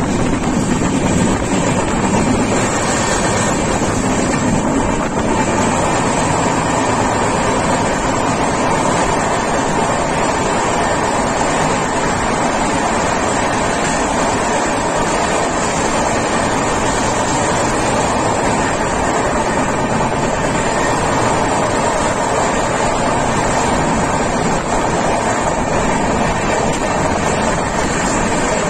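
Steady rushing noise of a passenger express train running at speed through a station without stopping, heard from on board: wheels on the rails and the wind of the run.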